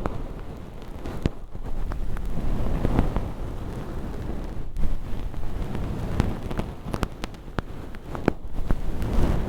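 Close-miked crackling and scraping of crispy fake earwax, made from crushed holographic film, as an ear-cleaning tool picks and peels it inside a silicone ear model. Scattered sharp crackles sound over a low rubbing rumble.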